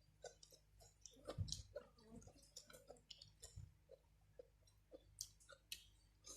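Faint chewing of boiled instant noodles close to the microphone, with many small, irregular wet mouth clicks.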